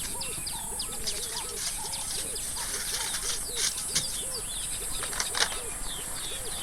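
Outdoor birdsong: many birds chirping, with a lower rising-and-falling call repeated about three times a second. A few brief crackling bursts break in midway.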